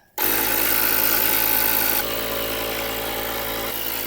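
Ryobi cordless tyre inflator starting up and running steadily, pumping air into a flat tractor tyre; it gets a little quieter about two seconds in.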